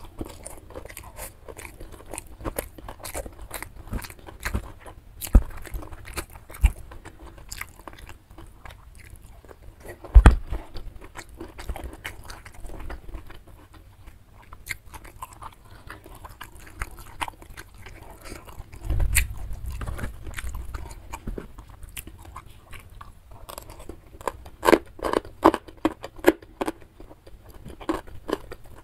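Close-miked wet chewing and lip-smacking of rice and side dishes eaten by hand, with frequent small crunches and clicks. A sharp thump about a third of the way in and a low bump about two-thirds in stand out above the chewing.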